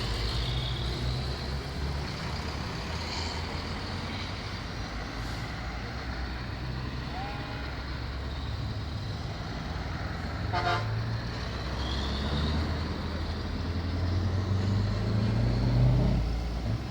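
Trucks running past with a steady low engine rumble, a short horn toot about ten seconds in, and one engine's note rising and growing louder near the end.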